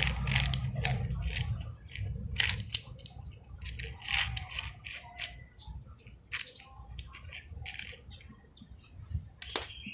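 Small irregular clicks and knocks of plastic toys being handled and set down on a hard surface, with a low hum fading out in the first second or so.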